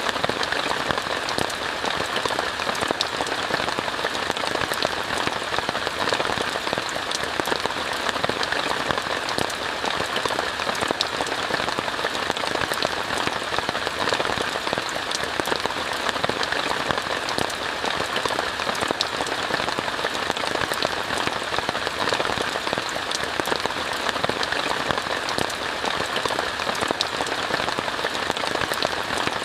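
Steady rain falling on a tent: an even hiss with many small, sharp drop ticks in it.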